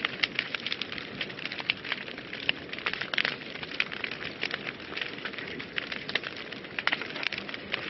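Wood fire burning in a fireplace: a steady low rush of flames with many irregular sharp crackles and pops.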